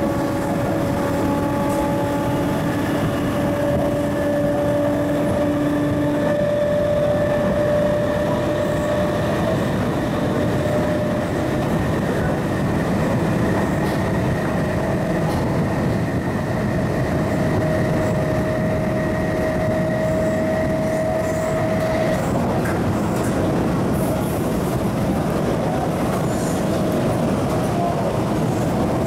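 Running noise inside a refurbished MTR East Rail Line MLR (Metro-Cammell) electric train: a steady rumble of wheels on track under a traction whine whose pitch climbs slowly as the train gathers speed. The whine cuts off about 22 seconds in, leaving the rumble.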